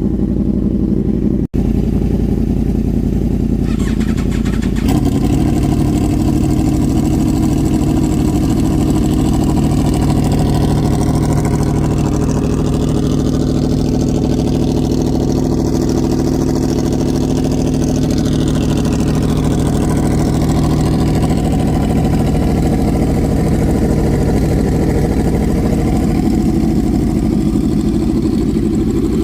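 Two Yamaha R1 crossplane inline-four engines fitted with Toce slip-on exhausts, idling at a cold start. About five seconds in, the one without baffles joins and the combined idle gets louder and brighter, then holds steady.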